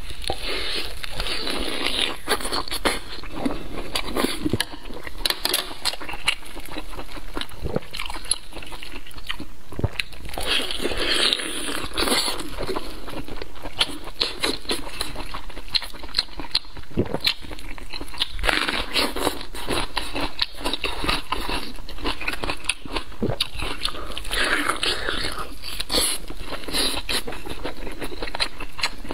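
Close-up chewing and biting of spicy braised flower intestines: a steady run of wet, squishy mouth sounds with frequent small clicks.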